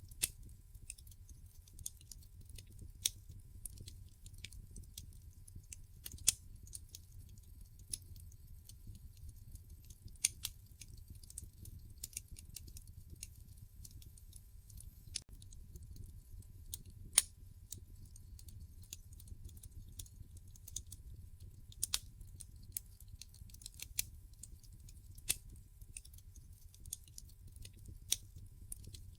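Wood fire burning in a fireplace: sharp, irregular crackles and pops from the logs over a low, steady rumble of the flames.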